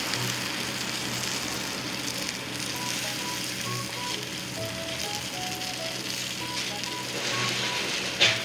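Meat sizzling on a grill over a campfire stand, with a quiet simple melody of background music over it. A single sharp click near the end.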